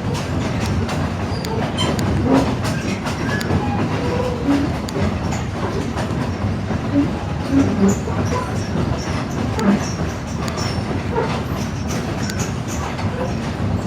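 Railroad passenger car rolling on the East Broad Top's narrow-gauge track behind steam locomotive No. 16: a steady rumble of wheels on rail with scattered clicks and rattles.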